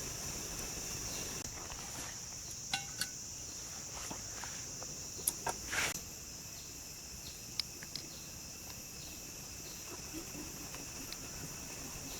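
Steady, high-pitched chirring of insects. A few sharp clicks and taps are scattered through it, the loudest a small cluster about five to six seconds in.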